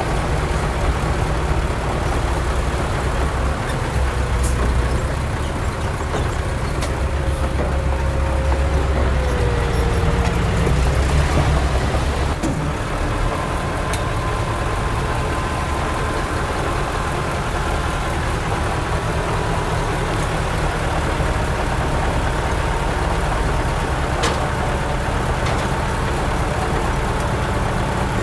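Heavy diesel earthmoving machinery running steadily, with a deep engine rumble that swells a little about a third of the way in and a faint whine that shifts in pitch.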